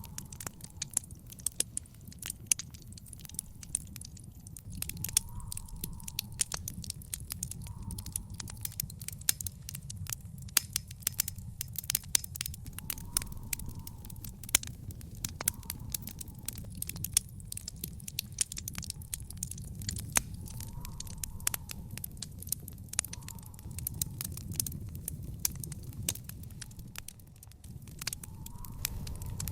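Wood fire burning in an outdoor fire pit: dense, irregular crackling with frequent sharp pops over a steady low rumble of the flames.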